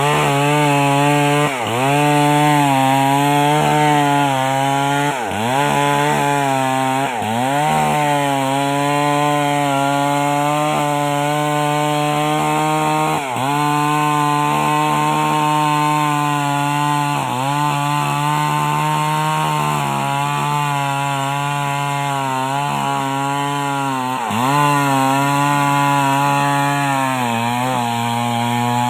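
An old two-stroke chainsaw running near full throttle while ripping a coconut palm trunk lengthwise. Its engine note dips sharply and recovers every few seconds as the cut loads it.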